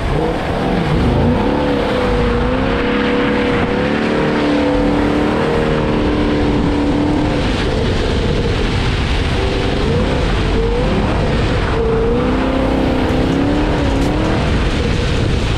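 6th-gen Camaro SS 1LE's 6.2-litre V8 revving up and down in pitch through two spells of donuts with a short lull between them, its valved exhaust in quiet stealth mode. A steady wet hiss runs underneath.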